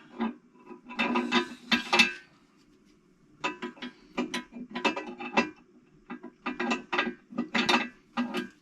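Ratchet wrench clicking in several runs of rapid clicks with short pauses between, as the Toyota 4A-GE engine is turned over by hand to check that it is not seized.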